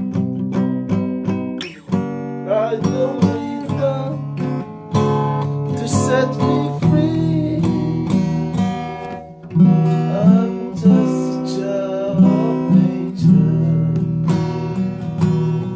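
Acoustic guitar music with strummed and picked chords, with a melodic line wavering above it.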